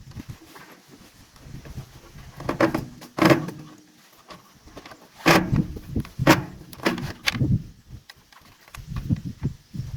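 A series of irregular knocks and thuds, about six heavy ones with lighter taps between, the loudest about five and six seconds in.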